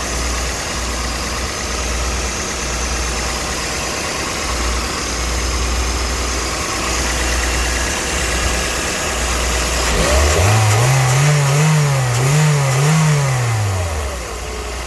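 Toyota Vitz's 2NZ-FE 1.3-litre four-cylinder petrol engine idling evenly, then about ten seconds in revved in three quick blips before dropping back to idle. It runs smoothly with no extraneous noises, a sign of an engine in good condition.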